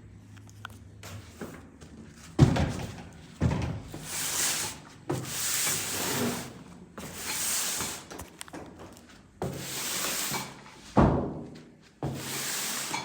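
Handling noises from household cleaning: about six knocks, each followed by a noisy stroke lasting about a second.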